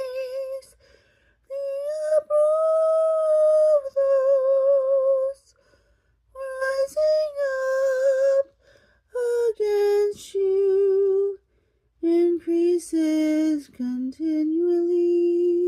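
A woman's solo voice singing unaccompanied, in phrases with vibrato on the held notes and short silent breaths between them. The voice drops lower for the last phrases and ends on a long steady note.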